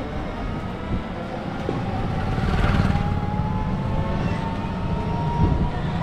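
Road traffic: a motor vehicle's engine running close by, its tone rising slowly from about halfway in.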